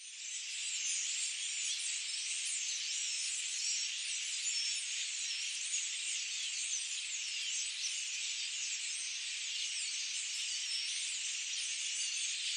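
Dense forest dawn-chorus-like wash of many small birds chirping and trilling at once, a steady high-pitched chatter, fading in over the first second.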